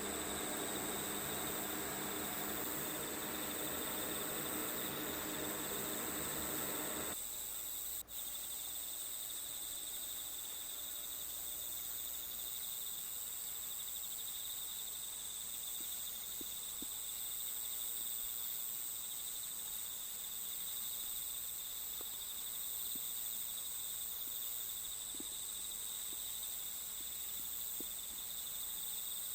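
Crickets chirping steadily in a high, continuous trill. A broader steady noise lies underneath for the first seven seconds and cuts off suddenly, and there is a brief dropout about a second later.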